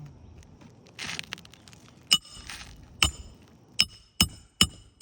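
Hammer blows on steel with a bright metallic ring: five sharp strikes from about two seconds in, coming faster toward the end. A short scrape or crunch comes about a second in.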